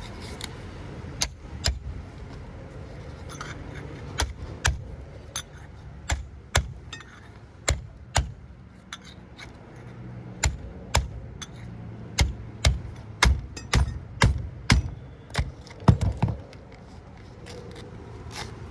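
Sharp metal-on-metal strikes, spaced out at first and coming in a quicker run of about two a second near the end: hammer blows driving copper windings through a transformer core.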